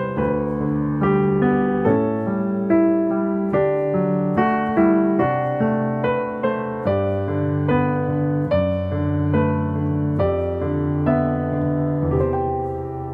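Background piano music: a gentle melody of struck notes, about two a second, over held low bass notes.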